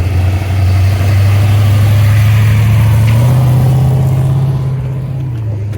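A car engine passing close by at low speed, loud and steady, its note stepping up in pitch about three seconds in before fading away near the end.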